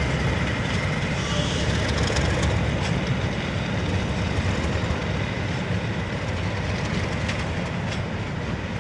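Diesel-hauled test train running past on the track, its wheels clicking over the rail joints over a steady rumble that slowly fades as it pulls away.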